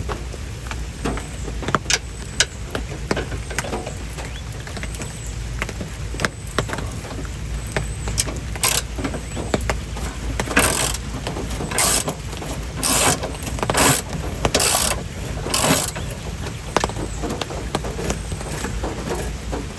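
Hand tools clicking and clanking against the exhaust hardware while working under a car, over a steady low hum, with a run of about six short rasping bursts in the second half.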